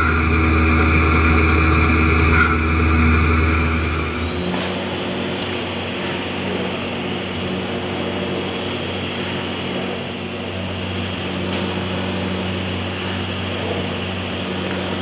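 Quickmill Annihilator CNC machining centre with a 50 hp spindle running steadily, with a deep hum and several steady tones. About four and a half seconds in, the sound changes: the deep hum drops away and a noisier, hissing machining sound with a new, lower steady tone takes over.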